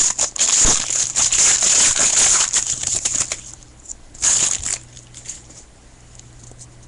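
Foil trading-card pack wrapper crinkling as it is torn open and handled: a long spell of crinkling, then a shorter burst about four seconds in.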